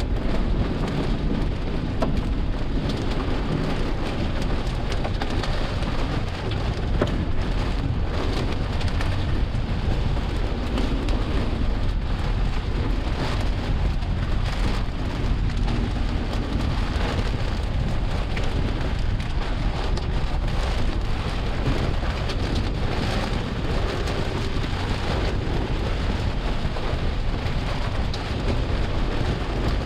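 Rain falling steadily: a constant hiss with many separate drop hits striking a hard surface.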